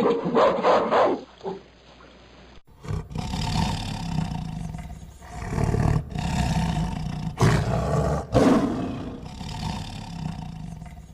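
Lioness roaring: a few short loud calls in the first second, then, after an abrupt change in the recording about two and a half seconds in, a series of long, loud, deep calls with brief breaks between them.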